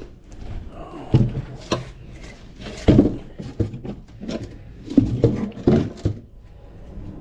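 A series of irregular knocks and clunks, about half a dozen over several seconds, of hard objects being handled and set down.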